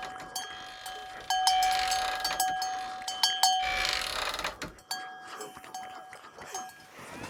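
A bell ringing with a clear tone, struck again and again at uneven intervals. It is the alarm bell rigged to sound if the sleeping combine harvester stirs in the night.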